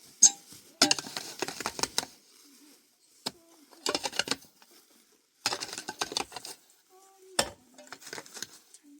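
Dishes and utensils clattering and clinking in short bursts, several times, with sharper single knocks between, as food is handled and served.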